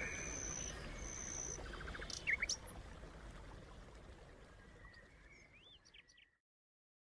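Outdoor ambience with a low rumble and scattered bird chirps: a quick run of short notes about two seconds in and a few more calls near the end, all fading out to silence about six seconds in.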